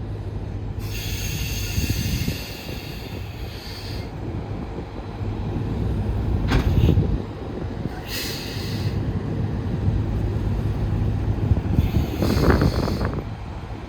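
Commercial tractor-trailer's diesel engine running steadily as the truck pulls forward, with several short hisses over it.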